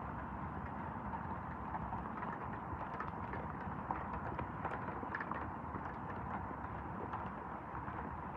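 Steady rain falling, with scattered drops ticking irregularly close by.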